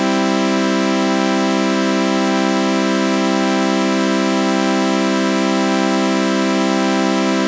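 A synthesizer chord of sawtooth waves run through a flanger, held as a steady, unchanging drone with a slight slow wavering in its overtones.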